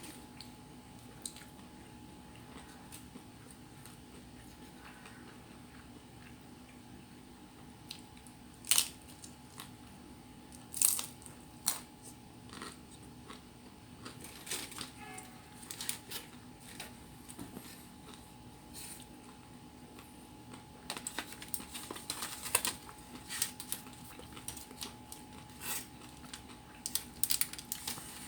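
A person eating pizza: a few sharp bites and crunches, then denser chewing and crackling from about two-thirds of the way in, over a steady faint hum.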